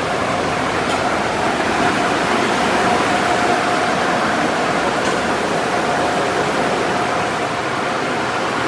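Automatic car wash running: a steady rush of water spray and machinery with a faint steady hum underneath.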